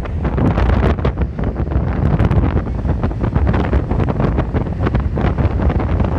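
Strong storm wind buffeting the microphone, a loud gusting rumble that rises and falls.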